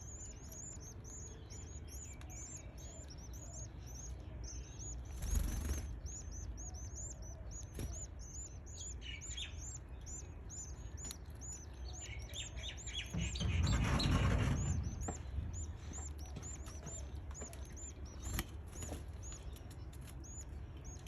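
Canary nestlings begging: a steady run of short, high peeps, about three to four a second. A short rustle comes about five seconds in, and a longer, louder rustle with extra chirps comes in the middle.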